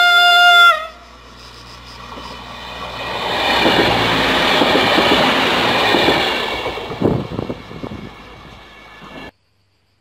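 A train's horn sounds one loud, steady blast that ends within the first second, and then the train passes by. Its rumble and wheel clatter build up, hold, and fade, with a cluster of clicks from the wheels late on. The sound cuts off abruptly near the end.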